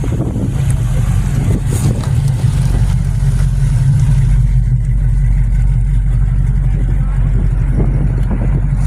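A car engine running at a steady idle close by, loud and low-pitched, with no revving.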